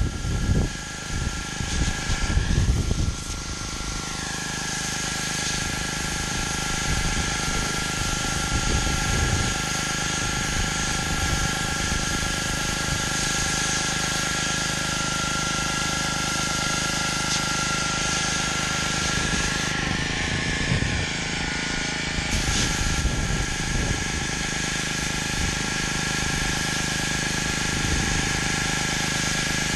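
Gas pressure washer running steadily while its high-pressure water sprays onto concrete: a constant engine-and-pump drone under a hissing spray. There are low rumbling bumps in the first few seconds.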